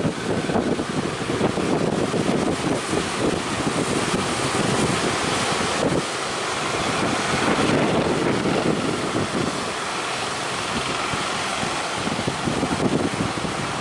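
Strong wind buffeting the microphone over the rush of breaking surf, smoother and steadier for a few seconds about halfway through.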